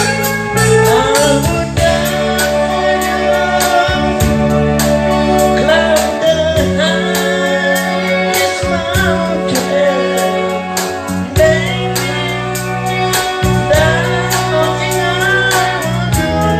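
A band playing a song with a sung lead vocal, over drums keeping a steady beat and sustained bass and keyboard notes.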